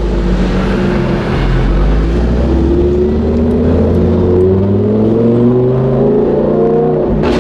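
Lamborghini Gallardo Super Trofeo Stradale's V10 through a straight-piped exhaust, heard from inside the cabin, pulling up steadily in revs from low speed, still under 3000 RPM. It has a loud, rough, rapid-fire exhaust note of the kind its owners nickname the "machine gun".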